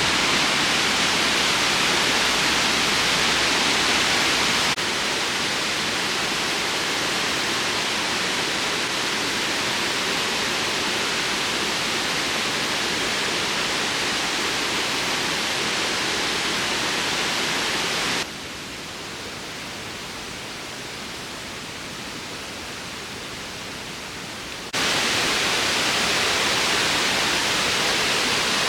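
Waterfall rushing in a steady wash of falling water. It drops suddenly quieter about eighteen seconds in and jumps back up about six seconds later.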